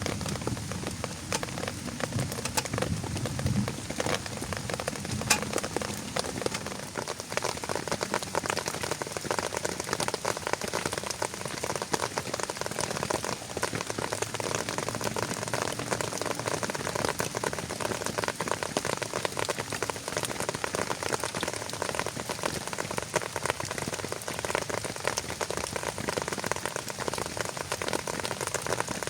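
Rain falling steadily, with many single drops ticking close by. A low rumble dies away over the first few seconds.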